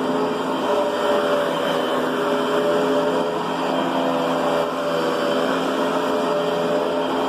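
Riccar Brilliance upright vacuum cleaner running steadily, its motor hum holding a constant pitch over a steady rush of airflow.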